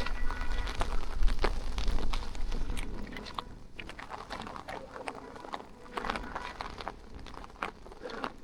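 Rain falling in irregular pattering ticks, with gusts of wind buffeting the microphone for the first three seconds before easing.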